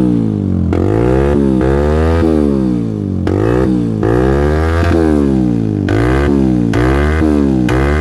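Yamaha YBR motorcycle's single-cylinder four-stroke engine running through an SC Project aftermarket exhaust, revved in quick throttle blips so the pitch rises and falls over and over, roughly once or twice a second.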